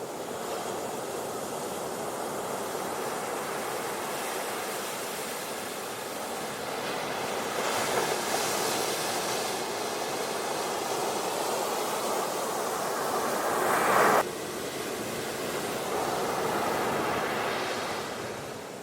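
Ocean waves washing onto a beach: a steady surf hiss that swells as waves break about eight seconds in and again near the end. One wash builds to a peak and cuts off abruptly about fourteen seconds in.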